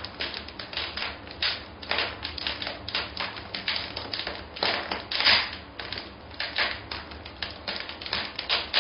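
Typewriter keys clattering in a rapid, steady run of clicks.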